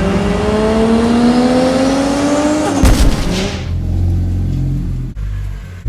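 Car engine accelerating, its pitch rising steadily for about three seconds; then, after a brief clatter, the sound changes abruptly to a low steady rumble.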